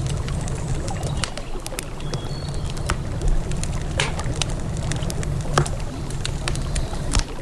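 Wood campfire crackling, with irregular sharp pops, a few louder ones about four and five and a half seconds in, over the steady low rush of a flowing river.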